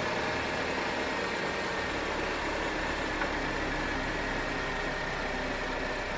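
Chevrolet Captiva 2.4 16v four-cylinder direct-injection engine idling steadily shortly after start-up, still settling, with a new timing chain kit fitted. The constant timing-chain noise it made before the repair is absent.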